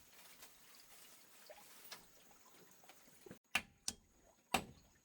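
Faint dripping and trickling water with small scattered drips. About three and a half seconds in, this cuts off and sharp knocks follow, three in the last second and a half, like a tool striking wood or bamboo.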